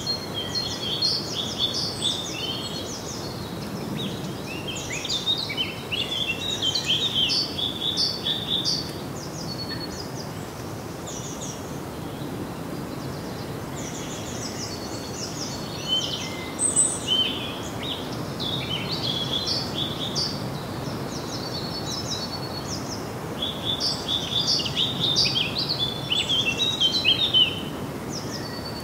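Small birds chirping in busy, overlapping bursts of quick high calls over a steady background hiss, with a lull of a few seconds in the middle.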